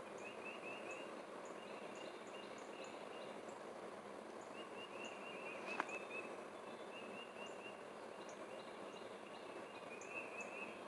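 Faint outdoor ambience: a steady hiss of background noise with small birds chirping in short quick runs, and a single sharp click about six seconds in.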